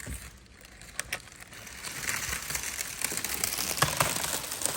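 Crinkling and rustling of material being handled, building up about two seconds in, with a few sharp clicks near the end.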